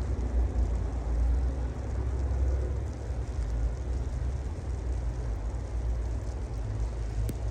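Wind buffeting a phone's microphone outdoors in a snowstorm: a steady, uneven low rumble.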